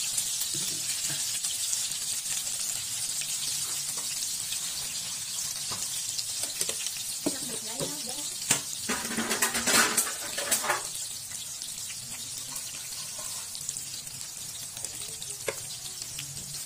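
Spring rolls frying in shallow oil in a pan: a steady, bright sizzle throughout. About halfway through there is a short, louder patch of clicks and knocks.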